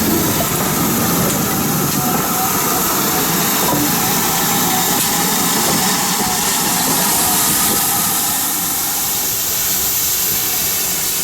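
Steam locomotive with a steady, loud hiss of steam.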